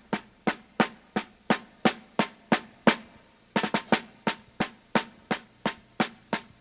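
Music soundtrack of drums alone: a steady beat of sharp drum hits, about three a second, with a quick run of hits about three and a half seconds in.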